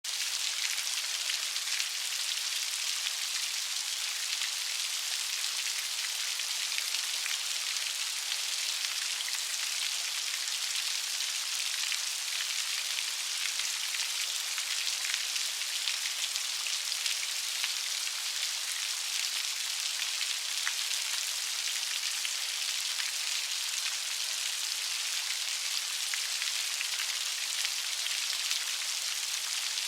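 Steady light rain falling, an even patter of many small drops.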